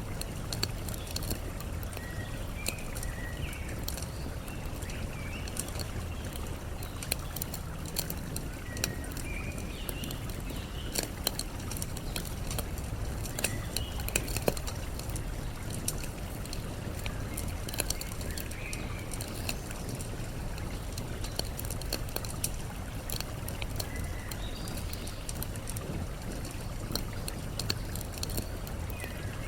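Campfire crackling with frequent sharp pops, over a steady low rush of flowing water. Short bird chirps come every few seconds.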